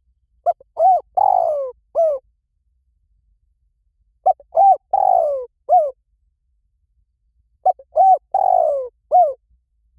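Spotted dove cooing, played as a lure call. The same phrase comes three times, about every three and a half seconds. Each phrase is a few short coos with a longer falling coo near its end.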